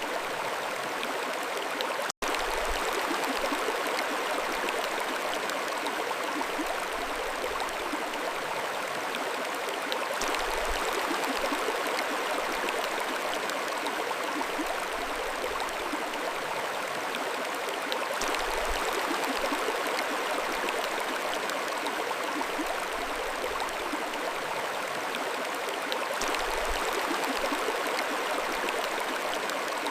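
A mountain stream flowing steadily, an even rush of running water with a light gurgle, broken by a momentary dropout about two seconds in.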